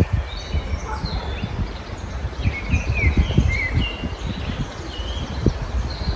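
Several songbirds chirping and singing in short, quick phrases, over a steady low rumble.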